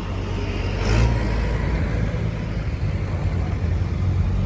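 Car engine and road noise, a steady low hum that grows a little louder about a second in.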